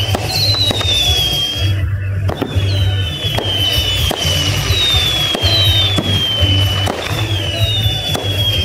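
Fireworks display: a dense run of shell bursts, bangs and crackling. Over it a high whistle falls in pitch again and again, about once a second.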